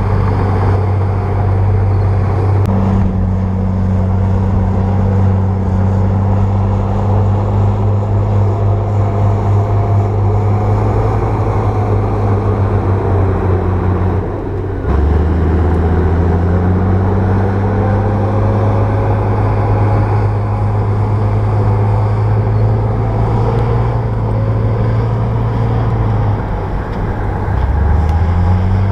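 Bulldozer's diesel engine running steadily with a deep hum. Its pitch dips and shifts about halfway through, and dips and rises again near the end.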